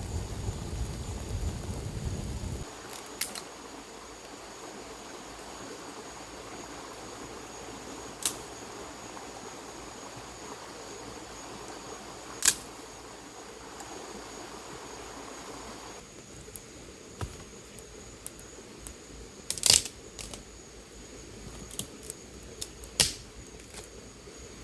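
Campfire burning with a soft steady hiss and sharp crackling pops every few seconds, the loudest near the end. A steady high-pitched whine runs underneath, and there is a low rumble in the first couple of seconds.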